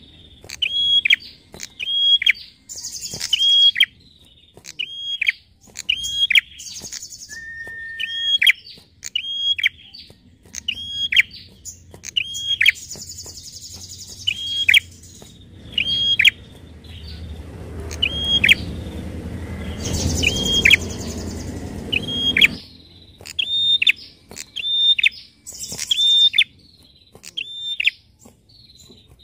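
Prinia (prenjak) calling: a sharp, high, hooked note repeated about once a second. A short, steady, lower whistled note comes in about eight seconds in, and a low rumble sits under the calls for a few seconds past the middle.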